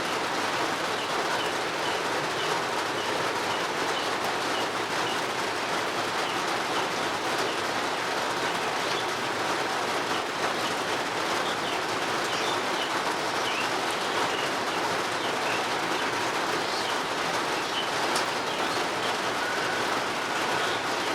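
Steady rain falling, an even hiss. Over it a bird chirps, short high notes repeated about twice a second for the first several seconds, then now and then.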